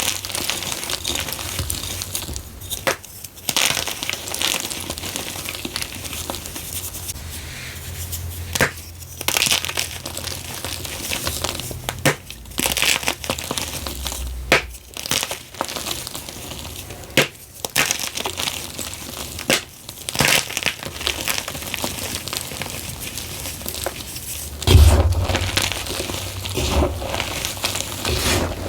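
Blocks of gym chalk coated in blue mica powder being crushed and crumbled in a bamboo bowl: a run of dry crunches and crackles, with heavier crunches near the end.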